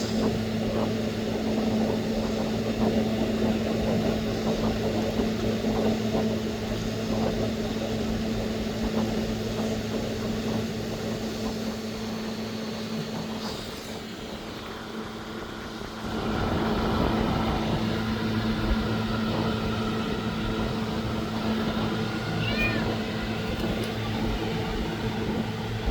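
A kitten meowing over a steady low mechanical hum.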